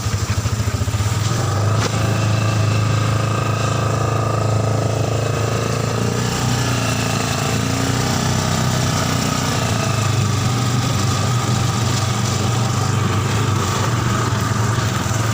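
Yamaha Scorpio Z single-cylinder motorcycle engine (about 225 cc) powering a mini buggy, running steadily with a constant low hum and no clear revving.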